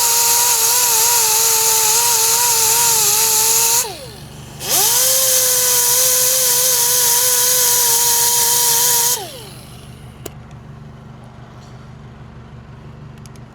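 Grinder with a conditioning disc grinding out curb damage on an alloy wheel rim, in two runs of about four seconds each. Each run spins up to a steady high whine and winds down, with a short pause between them.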